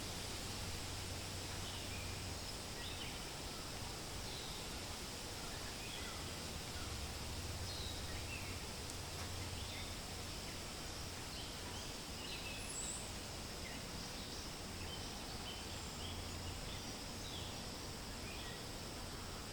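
Forest ambience: a steady hiss and low rumble of wind through leaves, with many short, high bird chirps scattered throughout.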